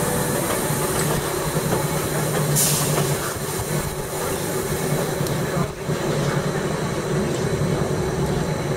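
Gornergratbahn electric rack-railway train running, with a steady low hum over rolling noise. A short hiss comes about two and a half seconds in.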